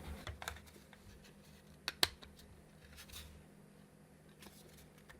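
Hand cutting pliers snipping at the plastic of a 3D-printed case: a few faint sharp clicks and snaps, the loudest two in quick succession about two seconds in and a softer one a second later.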